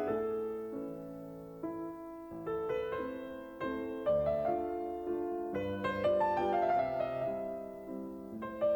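Background piano music: gentle chords and notes struck and left to fade, changing every second or so.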